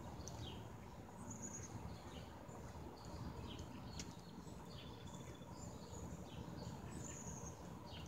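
Faint backyard ambience: birds chirping in short, high chirps every second or so over a low, steady background rumble, with a brief click about four seconds in.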